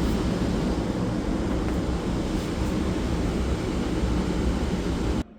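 Steady, loud rumbling and rushing noise that cuts off suddenly about five seconds in.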